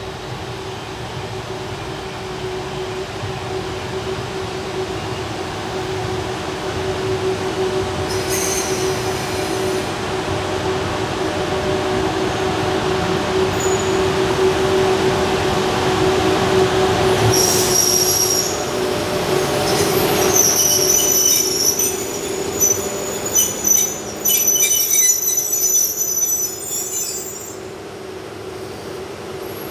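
EF81 electric locomotive hauling a train into the station: a steady hum and rumble grows louder as it approaches, then high-pitched wheel squealing comes in repeated bursts for several seconds as the train brakes, and the sound falls away near the end as it comes to a stop.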